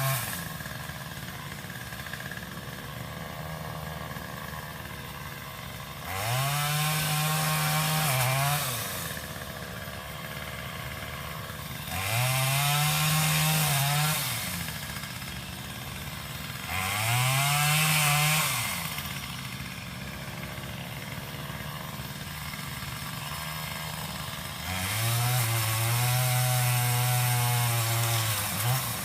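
Craftsman power limb cutter (pole saw) engine opened up four times, each burst rising in pitch and sagging as it cuts, then dropping back to a low idle in between.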